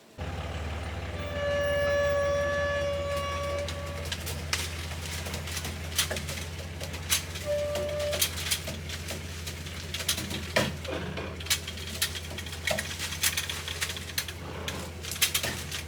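Truck engine running steadily with a low hum. A held tone sounds twice, and sharp clicks and rattles come throughout the second half.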